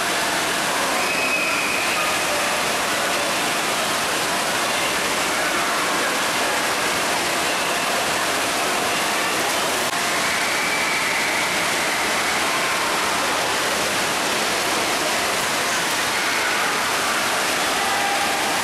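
Steady rush of falling and running water at an indoor waterpark, with faint distant voices and shouts mixed into it.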